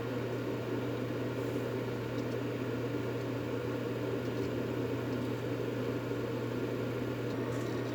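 Steady white-noise track: a dense rushing drone over a constant low hum, with no change in level or pitch.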